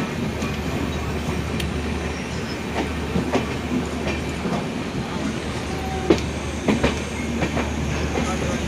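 Passenger train coach rolling along the track: a steady low rumble with irregular sharp clicks and knocks from the wheels over rail joints, a few louder ones about two thirds of the way through.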